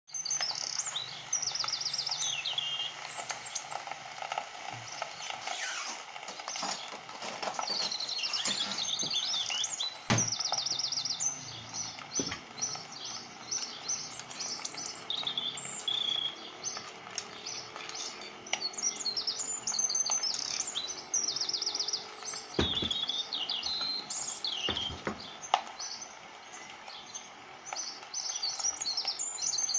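Small birds chirping and trilling over and over, with a few sharp knocks and clicks about ten, twelve, twenty-three and twenty-five seconds in.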